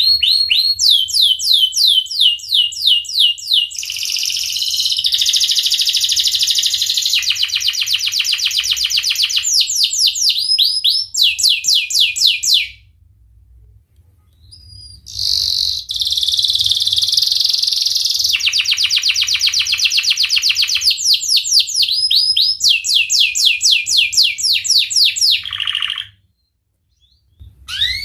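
Domestic canary singing long tours of rapid repeated notes, each note a quick downward sweep, switching from one trill to the next. The song breaks off for about two seconds in the middle, resumes, and stops about two seconds before the end, followed by one brief call.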